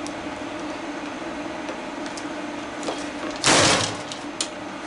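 A tool prying at a plastic housing: a few light clicks, then one short, loud scraping burst about three and a half seconds in.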